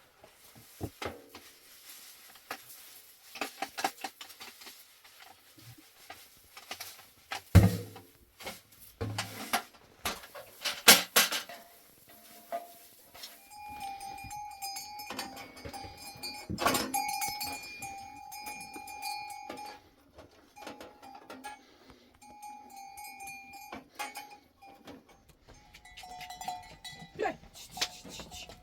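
A herd of goats and sheep wearing bells: scattered knocks and clatter through the first dozen seconds, then the animals' bells ringing on and off.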